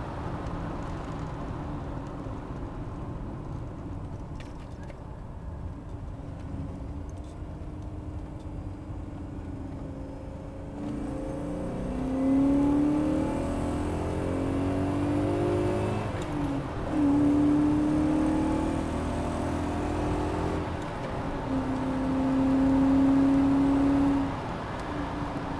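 BMW E34 530i's 3.0-litre M60 V8 through a Simons aftermarket exhaust, running at a low steady note, then revving up about ten seconds in. The pitch climbs and falls several times, and twice it is held at a steady higher pitch for a couple of seconds.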